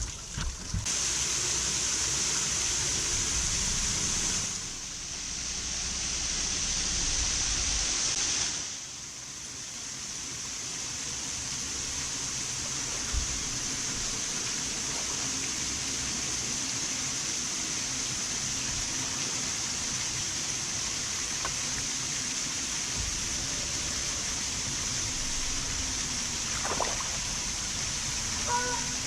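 Steady rushing, trickling water noise. It grows louder about a second in and drops back at about four and a half seconds and again near nine seconds.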